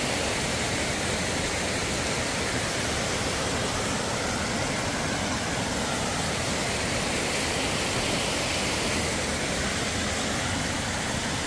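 Strong snowstorm wind blowing across the microphone: a steady, even rushing noise.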